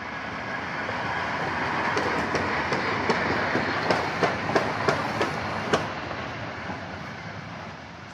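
Steam locomotive BR 50 3648, a German class 50 2-10-0, rolling slowly along the track, its running noise swelling and then fading. A string of sharp clicks from the wheels crossing rail joints comes in the middle.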